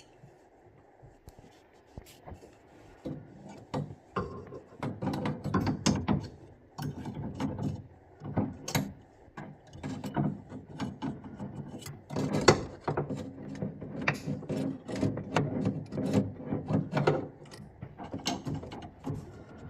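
Hand tools and metal fittings clicking and rattling as a Vaillant boiler's plate heat exchanger is worked on during an O-ring replacement. The clicking is quiet at first, then dense and irregular from about three seconds in, with sharp knocks.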